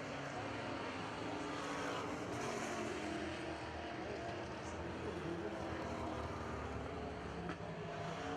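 Several Super Truck race engines running together around a dirt oval, a steady layered engine sound whose pitches shift a little as the trucks circle.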